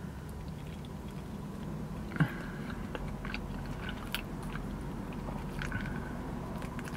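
Mouth sounds of someone chewing a big bite of breakfast burrito, with small wet clicks, over a steady low hum. There is one short louder sound about two seconds in.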